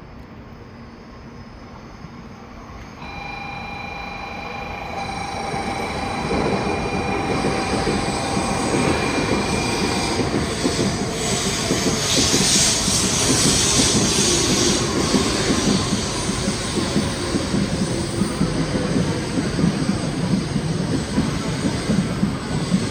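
Shinkansen bullet train running along a station platform, growing steadily louder over the first dozen seconds and then staying loud. A few steady high whining tones are heard early on, over the rushing noise of the train and its wheels.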